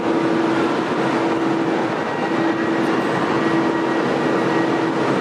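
Passenger train standing at a station platform, giving off a steady rushing hum with one constant tone held throughout.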